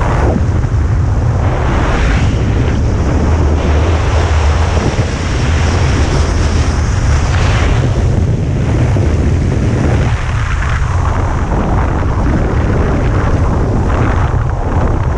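Heavy wind buffeting the microphone: a loud, steady low rumble with gusty surges every few seconds.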